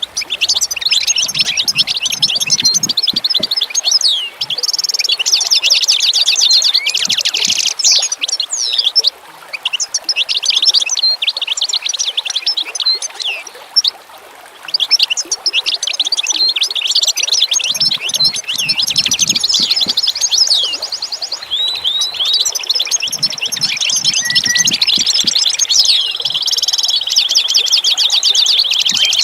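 Songbirds singing and chirping in a dense, rapid chorus of high trills, with brief pauses about a third of the way in and around the middle.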